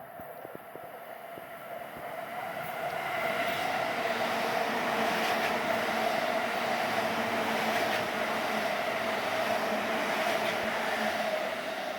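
Chuo Line electric train running past, growing louder over a couple of seconds, holding with a steady hum, then easing off near the end.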